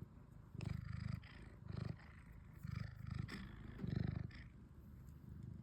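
Domestic cat purring close to the microphone: a low, rapid rumble that swells and fades with each breath, about once a second.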